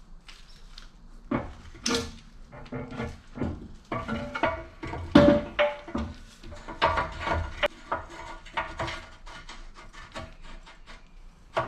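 Irregular knocks, clatter and rubbing of hard objects being handled, with a short ringing tone about five seconds in.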